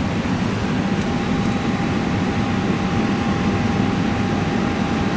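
Steady hum and air noise in a parked airliner's cockpit with the auxiliary power unit (APU) still running, a faint steady tone joining about a second in.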